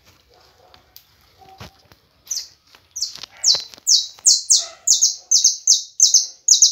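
A bird calling close by: a fast series of about a dozen short, high notes, each sliding downward, about three a second. It starts about two seconds in and keeps going.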